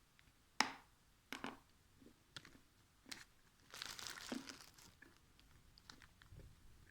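Edible Mugalzhar chalk being bitten and crunched close to the microphone: a few sharp cracks, then a longer crumbling stretch about four seconds in, followed by small clicks of chewing.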